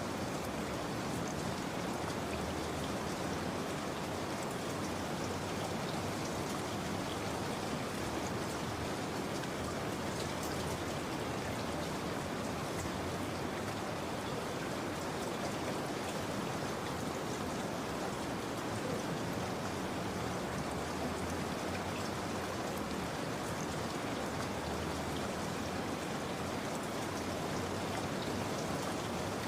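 Steady rain falling, an even patter of many drops that does not change.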